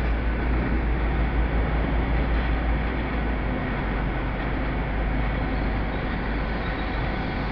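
GWR Class 802 train's underfloor diesel engines running as it moves slowly along the platform: a steady low rumble and hiss, with the deepest rumble easing about three and a half seconds in.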